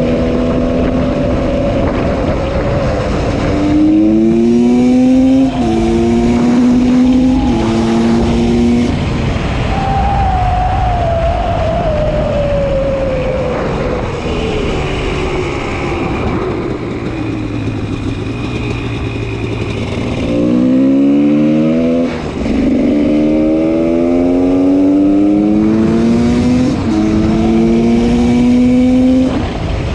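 GasGas 300 EC single-cylinder two-stroke engine with an FMF Powercore 2 exhaust, accelerating hard through several gears. Its pitch climbs and drops back at each upshift, then winds down steadily off the throttle, and about two-thirds of the way in it pulls up through the gears again.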